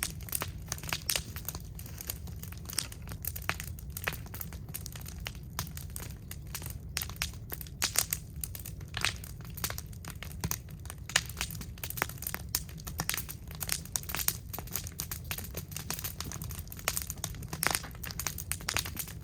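Scrap wood burning in an incinerator, crackling with many irregular sharp pops over a steady low rumble of the fire.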